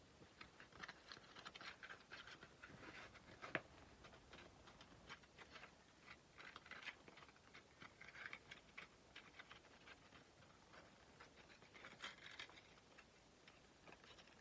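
Faint, quick, irregular strokes of sandpaper rubbing on a Nepalese kukri's steel blade, with one sharper click about three and a half seconds in.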